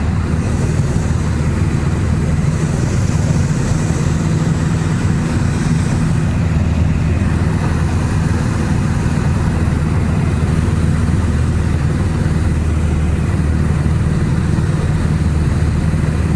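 A small propeller plane's engine running steadily in flight, heard from the cockpit as an even drone.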